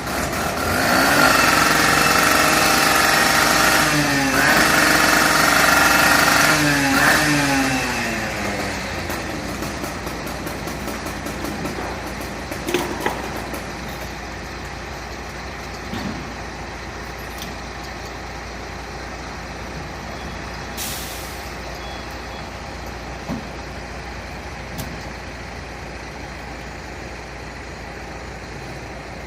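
Fire truck engine accelerating as it pulls away. Its pitch climbs, drops briefly about four seconds in as it shifts gear, climbs again and then falls away as it moves off. Afterwards a quieter steady vehicle background with a few clicks and a short hiss about twenty seconds in.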